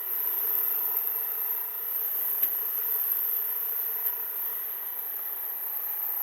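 Hydraulic log splitter's engine running steadily just after starting, warming up the hydraulic oil before splitting.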